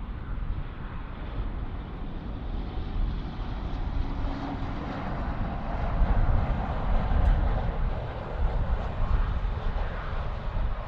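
Jet airliner's engines, a broad rumble that swells to its loudest about six seconds in, then eases slightly.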